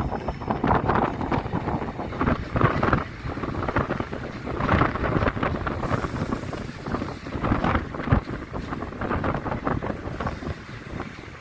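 Strong gusting wind buffeting a phone's microphone, rushing and rumbling in uneven surges.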